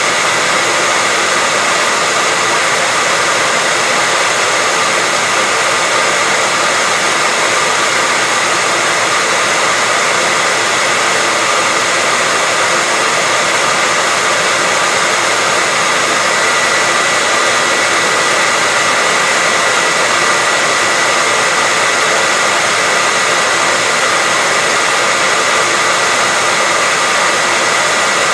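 Hair dryer running continuously, a steady loud rushing hiss with a faint high whine from the fan motor.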